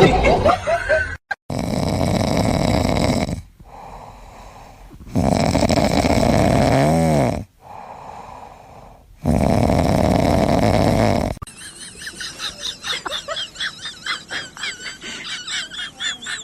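Loud snoring: three long snores about four seconds apart, with quieter breaths between them. About two-thirds of the way through it gives way to fast, rapidly repeated high chirping.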